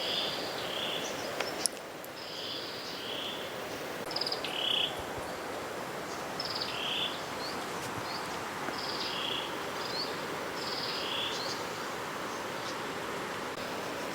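Repeated short, high chirping animal calls, about one or two a second, over a steady background hiss, with a couple of sharp clicks.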